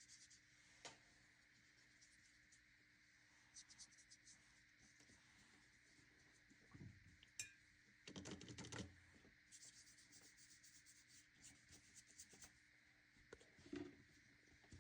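Faint, intermittent scratching of a wet watercolor brush stroking across sulphite paper, with a louder brief rustle about eight seconds in.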